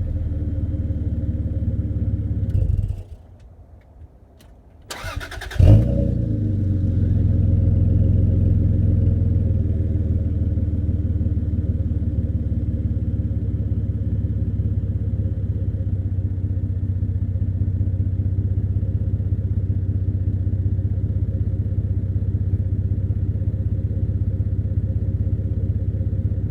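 Lexus GS 300's 2JZ-GTE twin-turbo straight-six idling through its exhaust. It is switched off about three seconds in, cranked by the starter for about a second, and catches with a brief loud blip before settling back into a steady idle.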